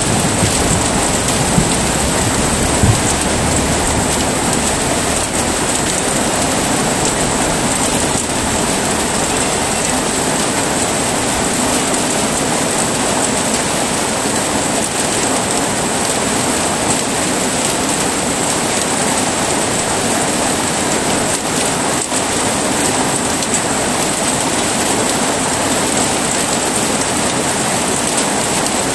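Heavy rain falling steadily, with the last of a low thunder rumble fading out over the first few seconds.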